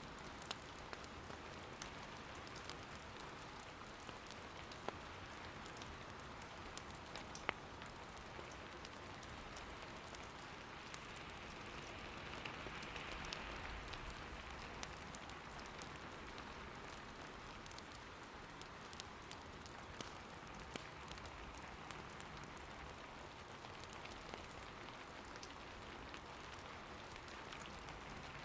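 Soft, steady rain patter, with scattered small clicks and pops of burning firewood crackling in an irori hearth.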